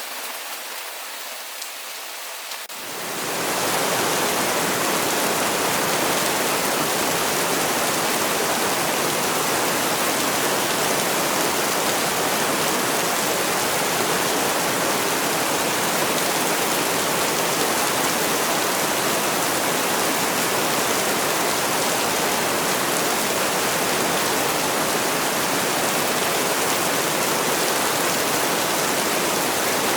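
Steady rain falling, lighter for the first few seconds, then swelling about three seconds in into a denser, louder and even heavy-rain rush that holds steady.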